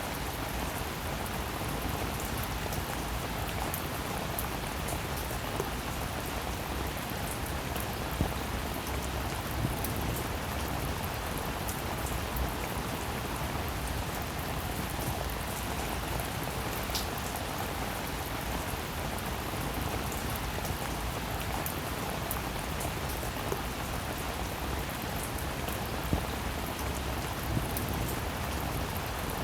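Steady rainfall, an even hiss of rain with many individual drops ticking and pattering throughout, a few of them a little louder than the rest.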